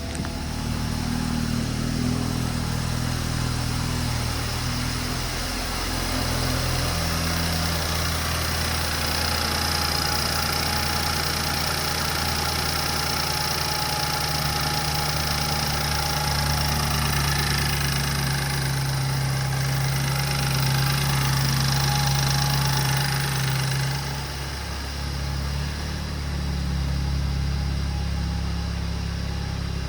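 2016 BMW 320i xDrive's 2.0-litre turbocharged four-cylinder engine running steadily. Its engine speed is raised and held for a while, then settles back toward idle about two thirds of the way through.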